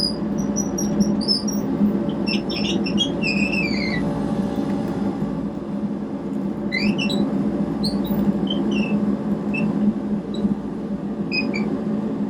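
Kubota KX121-3 mini excavator's diesel engine running steadily, with many short high squeaks and chirps scattered over it, some sliding down or up in pitch.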